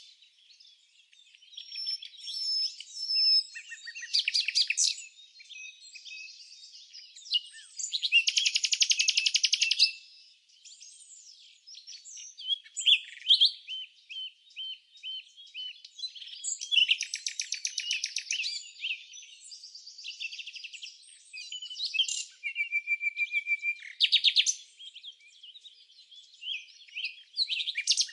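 Songbirds singing and chirping: a series of rapid buzzy trills and short high chirps, one phrase after another with brief gaps between them.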